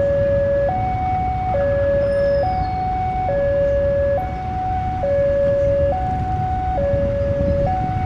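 Railway level-crossing warning alarm sounding a steady two-tone high-low signal, each tone just under a second, warning of an approaching train. A low rumble runs underneath.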